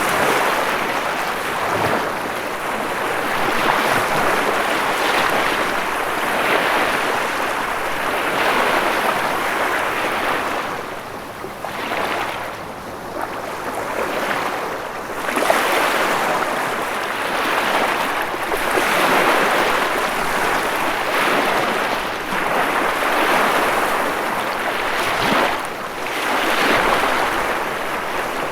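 Ocean waves breaking and washing on the shore in a continuous rush that swells and ebbs every few seconds.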